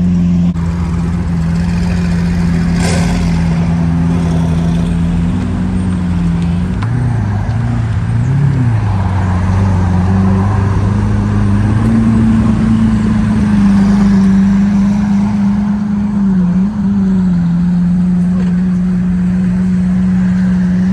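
Lamborghini engine idling steadily and loudly, with two brief small blips of the throttle about seven and eight seconds in.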